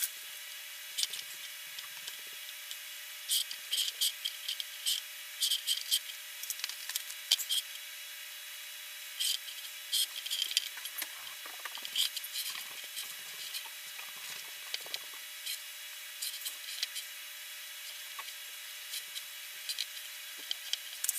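Irregular scratching, rubbing and light tapping of fingers pressing and smoothing a vinyl skin sticker onto a drone's plastic body, over a steady hiss.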